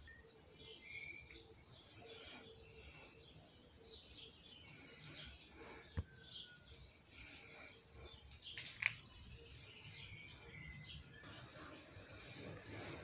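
Faint chirping of small birds, many short calls throughout. A sharp click about six seconds in, and a louder brief click a little before nine seconds.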